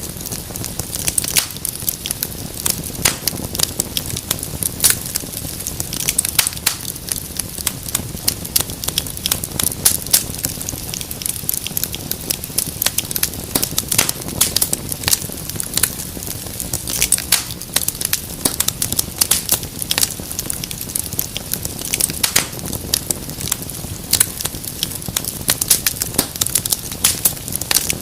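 Wood fire crackling in a fireplace: a steady hiss of burning with many irregular sharp pops and snaps.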